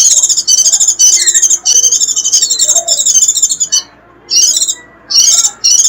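White-eye (vành khuyên) giving the 'rít' call, rapid high-pitched twittering of the kind used to lure wild white-eyes in. It comes as one long run of about four seconds, then a short burst, then another run starting near the end.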